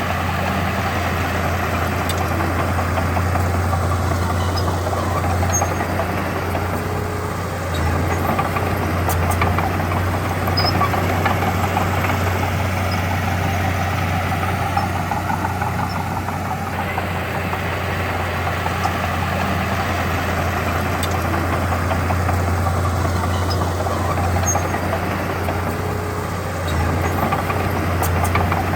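Diesel engine of a Komatsu D31P bulldozer running steadily, its level dipping briefly three times, about nine seconds apart.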